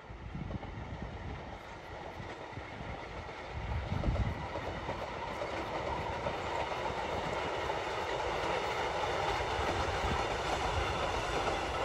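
Train running on rails, a steady mechanical hum with wheel noise, growing louder from a few seconds in.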